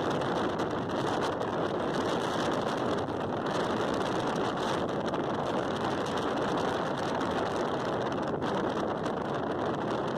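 Steady running noise of a moving passenger train, a continuous rush and rumble with wind buffeting the microphone.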